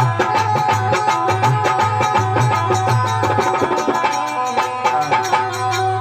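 Instrumental passage of a Rajasthani devotional bhajan: a fast, even hand-drum rhythm under a steadily held melody line.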